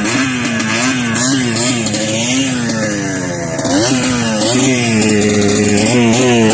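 Trail motorcycle engine running under a throttle that is worked on and off, the revs wavering up and down; the revs sag about three seconds in and then climb sharply about a second later.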